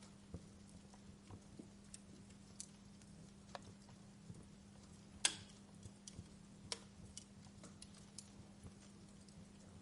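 Wood fire crackling in a fireplace: scattered soft ticks and snaps, with one louder pop about five seconds in and another a second or so later, over a faint steady hum.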